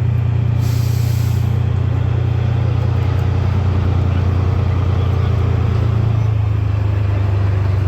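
Heavy off-road competition truck's engine running at steady high revs, with its pitch dropping slightly near the end.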